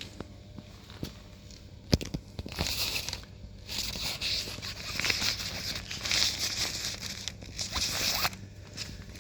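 The fabric of a motorcycle cover rustling and crinkling as it is handled, in long noisy stretches, with a single sharp click about two seconds in.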